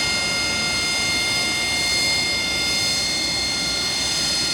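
Aircraft engine running steadily: an even rush with several high, steady whining tones that do not rise or fall.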